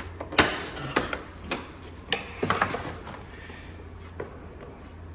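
Hand tools and metal parts knocking and clattering while accessories are unbolted from a car's engine bay: several sharp knocks in the first three seconds, then quieter handling over a steady low hum.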